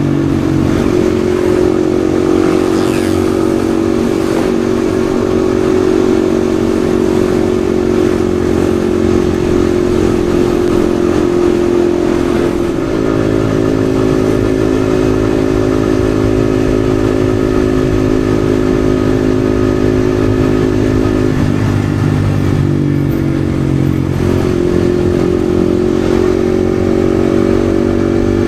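Yamaha XSR155's single-cylinder 155 cc engine running steadily while riding. Its pitch shifts briefly about halfway through, then dips and comes back up near the end.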